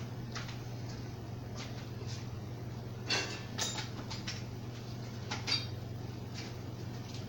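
AeroSpeed box fan running steadily on low speed with a low, even motor hum. A few short clicks and knocks come about three seconds in and again a little past five seconds.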